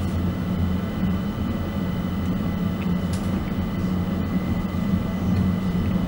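London Overground electric train running at speed, heard from inside the carriage: a steady low rumble from the wheels and running gear, with a faint steady high whine over it and a couple of faint short clicks.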